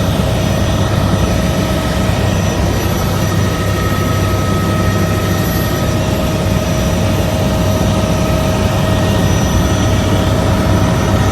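Helicopter engine and rotor noise heard from inside the cabin: a steady, loud drone with a constant high whine over it.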